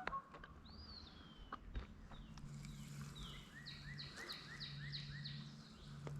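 A songbird singing: one falling whistle, then a run of about eight quick repeated falling notes, over a faint low hum.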